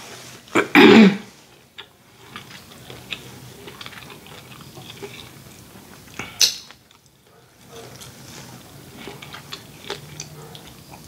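Close-miked chewing and lip-smacking on butter-sauced shrimp, many small wet clicks. About a second in there is a loud, brief throat sound that falls in pitch, and there is a sharp smack about six and a half seconds in.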